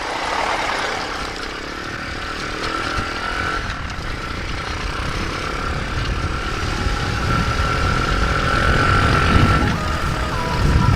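Nitro Sky 125cc pitbike's single-cylinder four-stroke engine running while riding, under a steady rush of noise, with a low rumble building towards the end.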